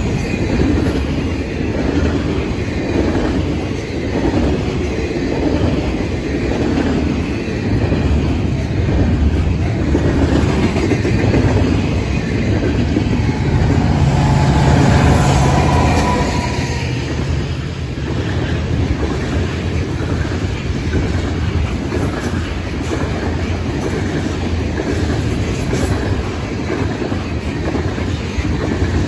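Long diesel-hauled freight train rolling past close by: double-stack container cars and tank cars rumbling, with rhythmic wheel clatter over the rails. About halfway through, a CN diesel locomotive working as a mid-train distributed power unit goes by, adding a steady engine hum that swells and fades.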